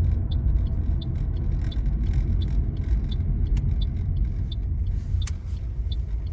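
Car driving on the road, heard from inside the cabin: a steady low road and engine rumble. Faint high ticks repeat about three times a second, and there is one sharp click about five seconds in.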